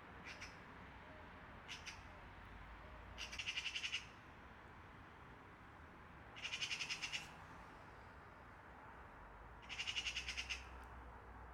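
A bird calling: two faint short chirps, then three rapid rattling trills of under a second each, spaced about three seconds apart.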